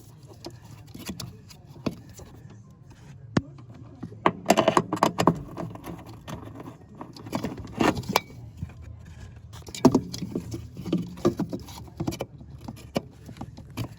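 Irregular clicks, knocks and rattles of hand work as a plastic vacuum reservoir and its fittings are mounted in a van's footwell, busiest about four seconds in, over a low steady hum.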